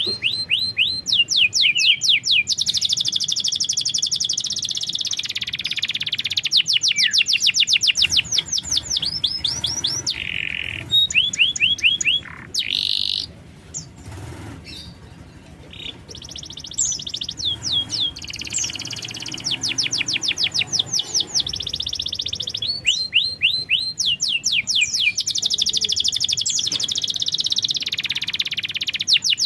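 Domestic canary singing long phrases of fast, rolling trills and repeated chirps, with a quieter break about halfway through. It is a full-voiced canary song of the kind played to prompt other canaries to sing.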